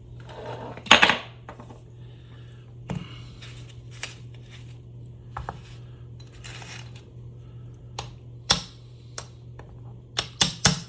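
Small metal motor parts clinking and knocking against a hard surface as they are handled and fitted together. There is a louder knock about a second in, a few single clicks after it, and a quick run of clicks near the end.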